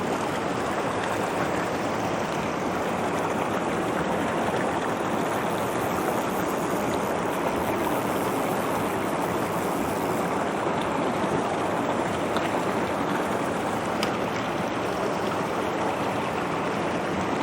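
Mountain stream rushing steadily over rocks and small waterfalls into a deep pool.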